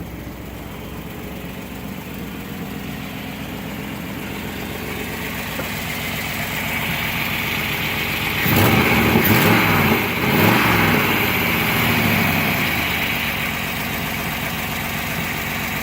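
1997 Chevrolet Suburban's 5.7-litre V8 running at idle, revved up and back down twice about halfway through, then settling back to idle.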